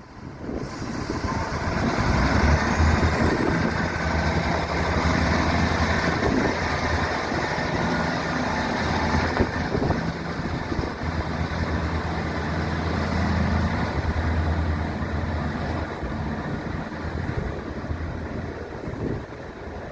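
Multiple-unit train at a station platform, running with a steady low hum. A high-pitched whine rises in pitch over the first few seconds and then holds steady.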